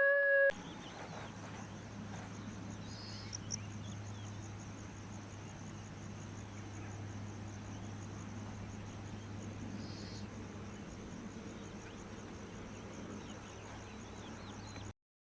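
Steady, high-pitched insect chirring over a low hum. A long pitched call cuts off abruptly at the very start.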